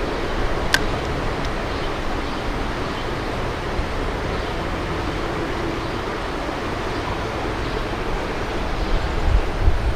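Steady rushing of a rain-swollen creek. One sharp click comes about a second in, and low wind gusts buffet the microphone near the end.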